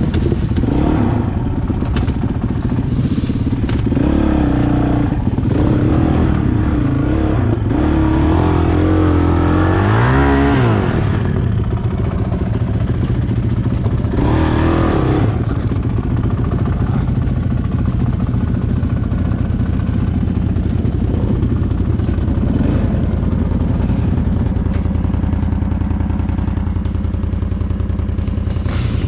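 Off-road motorcycle engine running, revving up about ten seconds in and again briefly a few seconds later, with some clatter over rough ground.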